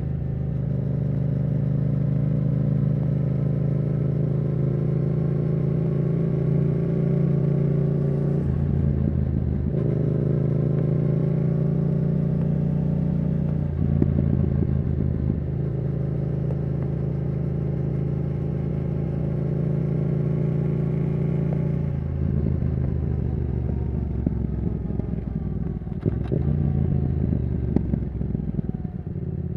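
Yamaha R7's 689 cc CP2 parallel-twin engine running through a Yoshimura R77 exhaust while riding, the note breaking briefly for gear changes about eight and fourteen seconds in. From about two-thirds of the way through, the engine note falls as the bike slows, and a couple of sharp pops come near the end.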